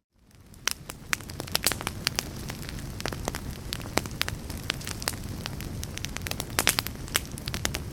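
Fire in a fireplace crackling, with frequent sharp pops over a steady low rumble of flames. It fades in from near silence in the first second.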